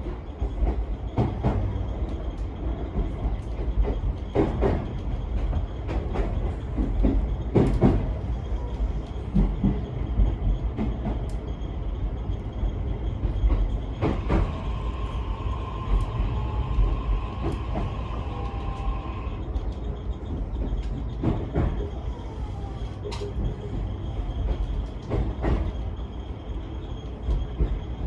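Onboard running sound of a JR East E131-1000 series electric train: a steady low rumble of wheels on rail, with scattered sharp clicks from the track. A steady high squeal comes in about halfway through and lasts some five seconds.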